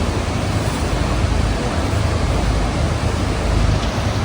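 Steady roar of Niagara's American Falls and the boat's spray-laden wind, an even rushing noise with a deep rumble underneath.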